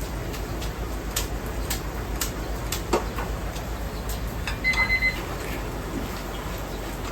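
Kitchen work sounds: scattered clicks and knocks of utensils and dishes over a steady background hum. A single short electronic beep comes a little past halfway.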